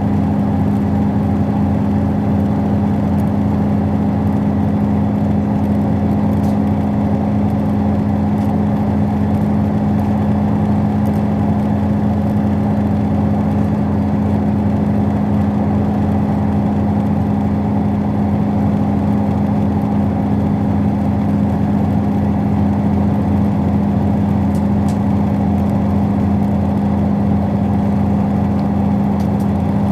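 Steady running noise inside a moving Thai express train carriage: a constant drone with a strong low hum and rumble that does not change.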